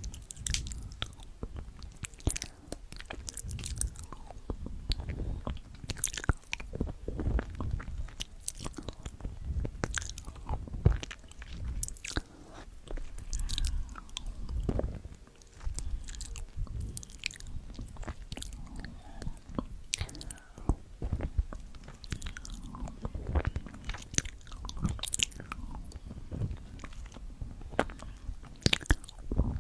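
A person chewing and biting food close to the microphone, with irregular crunchy clicks between softer chews.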